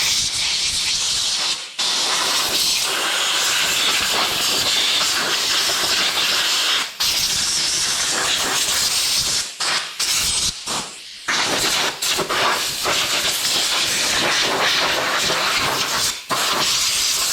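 Air blow gun hissing in long blasts as dirt and grass are blown off an RC truck, stopping briefly several times.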